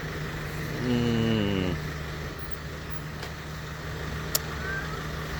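Road traffic with a steady low engine hum. About a second in comes a brief sound that falls in pitch, and near the end a single sharp click.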